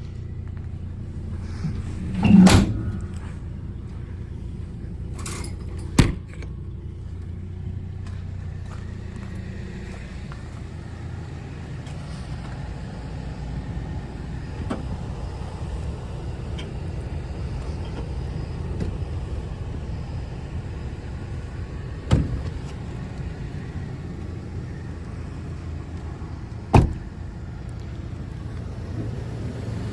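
Pickup truck engine idling steadily, with four sharp knocks over about half a minute.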